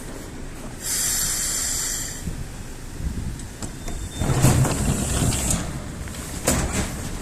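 EP2D electric train standing at the platform: a burst of air hiss about a second in, lasting about a second, then low rumbling and a few knocks around the open sliding doors.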